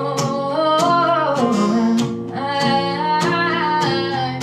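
Acoustic guitar strummed with a woman singing over it, between lines of a slow song.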